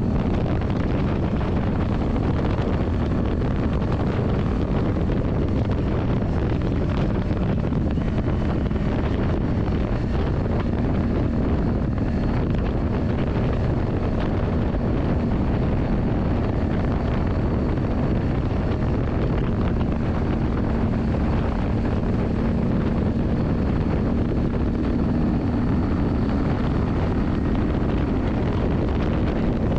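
Yamaha Drag Star 400's V-twin engine running at a steady, even pitch, with wind noise on the microphone.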